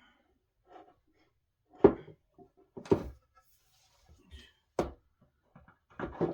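Solid-wood dining table parts knocking and thumping as they are handled and fitted together during assembly: four or five sharp knocks, irregularly spaced about a second or two apart, the one nearly two seconds in the loudest.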